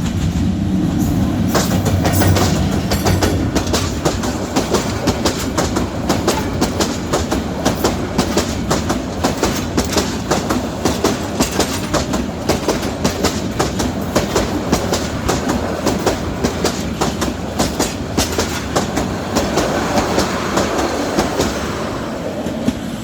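Lalmonirhat Express passenger train passing at speed: a low locomotive rumble in the first few seconds, then the carriage wheels clicking fast and steadily over the rail joints, easing off near the end.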